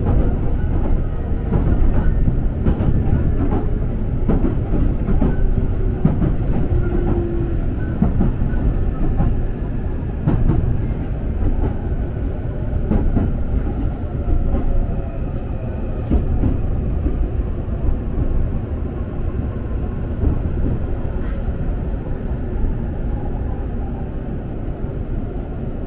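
Electric train running on the Joban Line, heard from on board: a heavy rumble of wheels on track with occasional clicks and knocks, and a faint motor whine that slowly falls in pitch.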